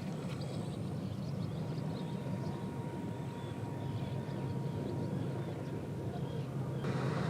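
Steady low drone of a vessel's engine running, with a faint steady whine above it.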